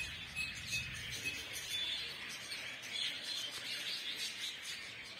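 Aviary birds chirping: a few short, high chirps over a steady background of bird chatter.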